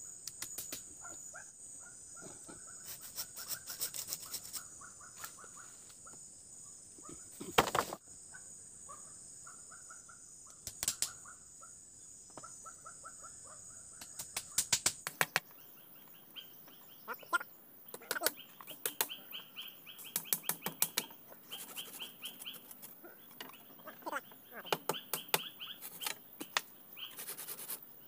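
Forest ambience: birds calling in trains of short repeated notes, with a steady high insect drone through the first half. Scattered sharp knocks and clicks sound throughout. About halfway the drone stops and the bird notes shift higher.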